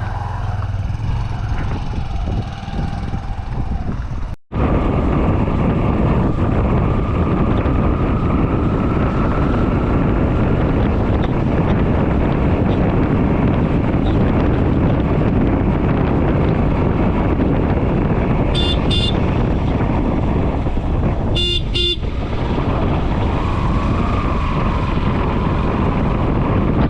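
A steady, loud rushing noise, broken sharply a few seconds in, with two short bursts of pulsed vehicle-horn honking late on, the second a little longer.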